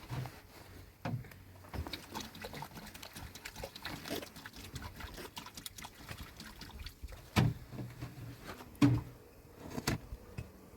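Irregular small knocks and handling noises, with three louder sharp thumps in the second half.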